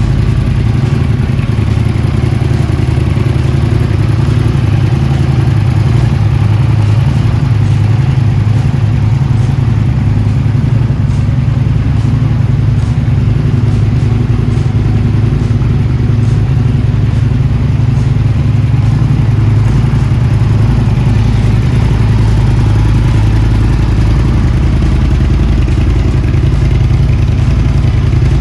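Aprilia Tuono 1000 motorcycle engine idling steadily through Delkevic twin end-can exhausts.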